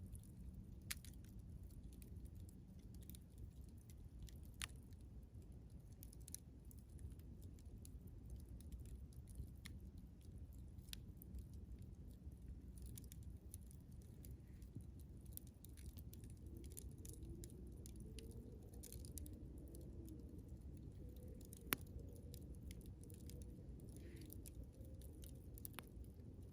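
Campfire burning quietly: wood crackling with scattered, sparse pops over a low rumble, one sharper pop a little past twenty seconds in.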